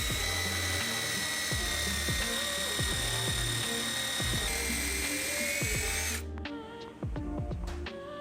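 Power drill running steadily with a high whine, boring a dowel hole into the edge of a Japanese cypress (hinoki) board through a drill guide; its pitch rises a little past the middle and it stops suddenly about six seconds in. Background music plays throughout.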